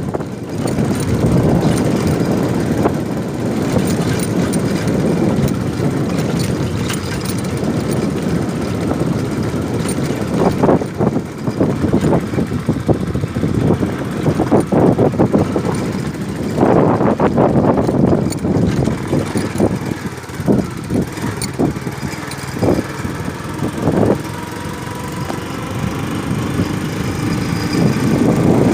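A motor vehicle's engine running steadily while travelling along a road, with road and rattle noise and scattered knocks.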